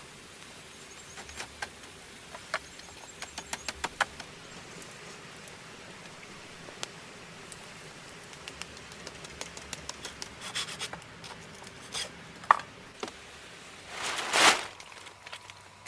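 Light wooden clicks and taps of sticks being handled, with a quick run of taps about three to four seconds in and a brief rustling swish near the end.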